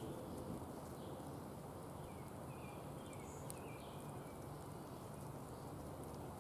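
Small birds chirping faintly a few times, over a steady low background rumble, with scattered light ticks.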